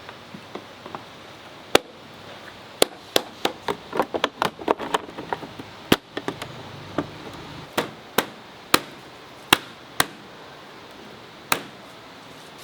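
A series of sharp knocks and taps at uneven spacing, about twenty in all, bunched closely together between about three and five seconds in.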